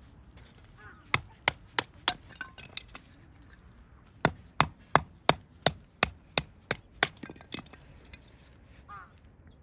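Firewood being chopped into pieces for the fire: sharp wooden knocks about three a second. A run of four hard strikes begins about a second in, and a longer run of about ten follows from a little past four seconds.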